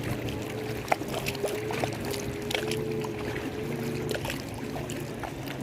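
Lake water lapping and splashing, with many small irregular splashes and a steady hum underneath.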